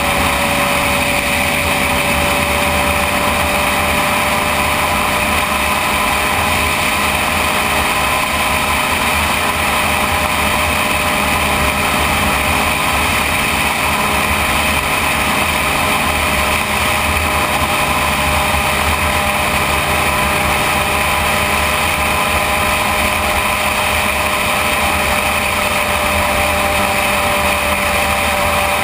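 Sport motorcycle's engine running at a steady cruising speed, one even engine note that holds its pitch throughout, over a constant rush of wind and road noise.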